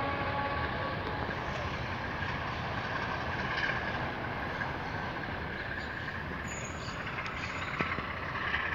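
Freight train hauled by an ALCO RSD-16 diesel locomotive, rumbling steadily as it moves away down the line. The last of its horn fades out about a second in.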